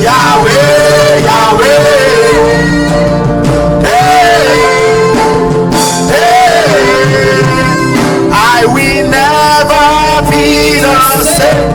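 Live worship music: a singer's voice gliding over a steady band accompaniment with keyboard and guitar.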